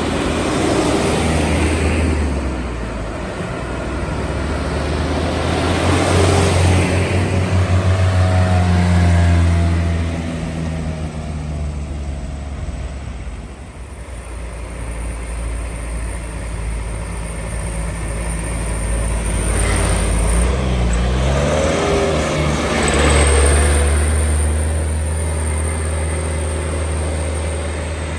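Heavy diesel trucks passing one after another, their engines pulling under load, loudest about six to nine seconds in and again near the end. Around twenty seconds in, one engine's note falls and then rises again.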